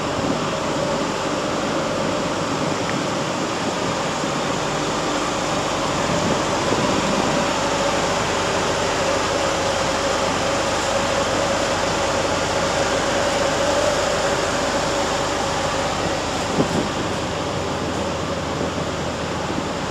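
Steady hum and rushing air noise of a standing Prameks passenger train with its air-conditioning and machinery running.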